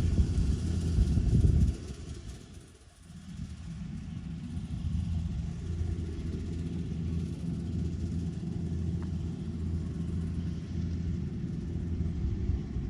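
Kubota DC-105X rice combine harvester's diesel engine running. A loud rumble in the first couple of seconds drops away near 3 seconds, then gives way to a steady, even hum.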